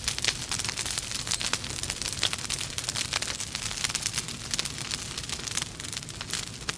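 Wood fire burning in a fireplace: logs crackling with many small irregular pops and snaps over a steady hiss.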